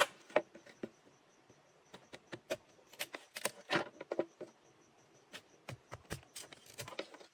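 Irregular sharp taps, clicks and knocks of hand work with materials, clustered most densely in the middle, over a faint steady high hum.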